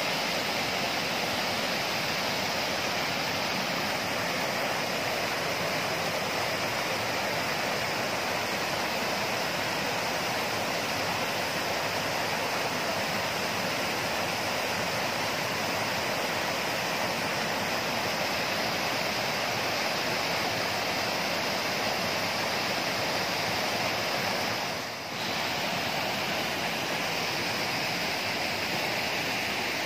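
Waterfall water rushing steadily, with one brief dip about 25 seconds in.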